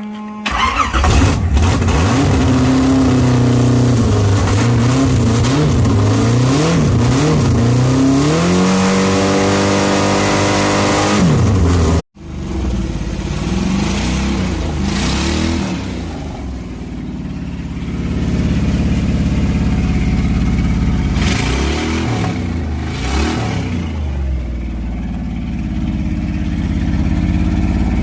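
Cast-iron small-block Chevy 350 V8, with a high-lift cam, a Holley double-pumper carburettor and a custom exhaust, firing up and being revved up and down. There is a sudden break about twelve seconds in, after which it idles with a couple of throttle blips.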